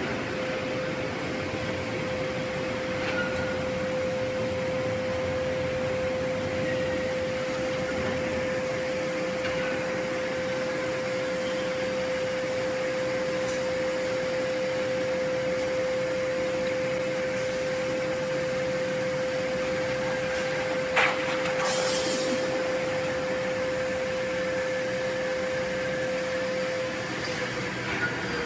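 Forging-shop machinery running steadily with a constant whining tone, with a sharp knock about two-thirds of the way through, then a short hiss. The whine fades out near the end.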